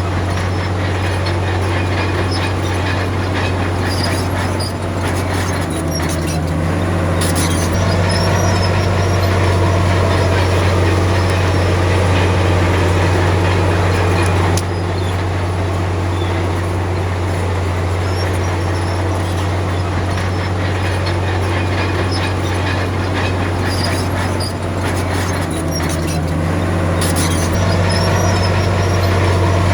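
Komatsu D53P crawler bulldozer's diesel engine running steadily under load, with a few short clanks. The engine note shifts briefly twice.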